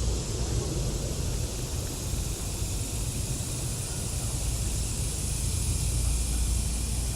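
Steady outdoor noise: a wavering low rumble of wind on the microphone under an even hiss.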